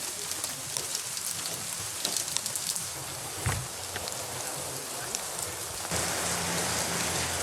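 Steady rain falling, with many small drop ticks through it and a single low thump about three and a half seconds in. A low steady hum joins about six seconds in.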